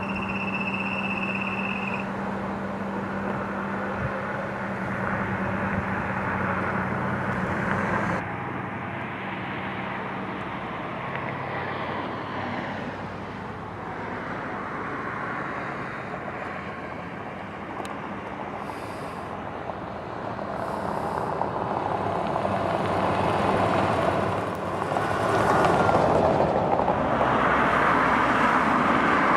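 Road traffic going by: a steady wash of passing vehicles, swelling louder as a vehicle comes close near the end.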